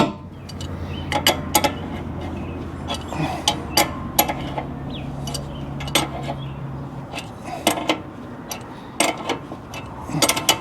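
Adjustable wrench working a steering drag link nut loose: a series of irregular metallic clicks and clinks as the wrench is fitted, turned and repositioned. A low steady hum runs underneath and stops about seven seconds in.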